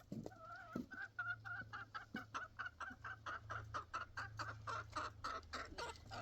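Chickens clucking in a quick, steady run of short clucks, about four a second.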